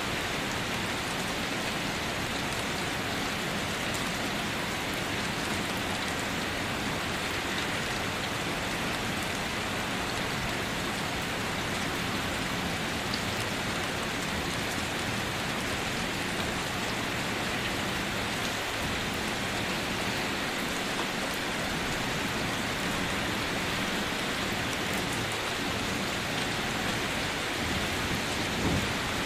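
Heavy rain pouring steadily onto puddled, waterlogged ground, a dense even hiss.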